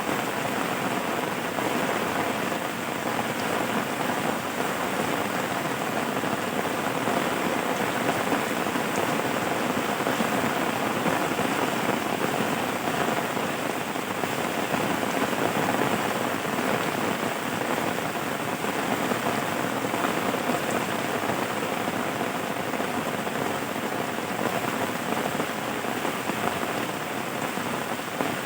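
Steady rain falling: an even, unbroken patter of drops.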